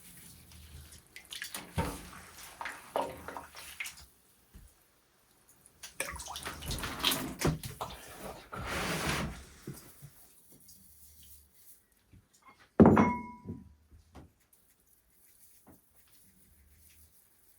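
Irregular water splashing and sloshing in two stretches, then one sharp knock that rings briefly, about two thirds of the way in.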